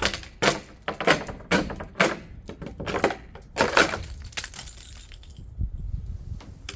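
Icicles being knocked off a roof edge, the ice cracking and shattering in a series of sharp breaks and clatters over the first four seconds or so.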